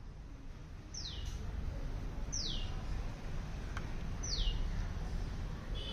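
A bird calling three times, each a short high whistled note sliding quickly down in pitch, over a steady low rumble of background noise.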